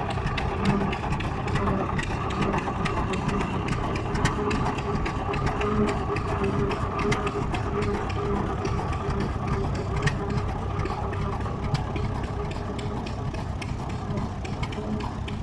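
Vintage farm tractor engine running steadily as the tractor goes by, with a fast even pulsing beat.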